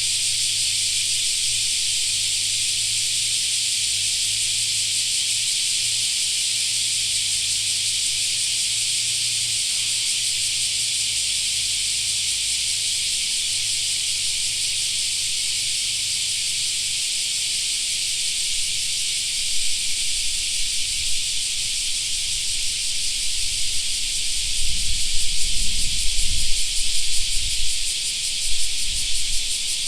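Dense chorus of cicadas, a steady high sizzling drone with no breaks. From about two-thirds of the way in, irregular low rumbling gusts come and go and briefly rise above it.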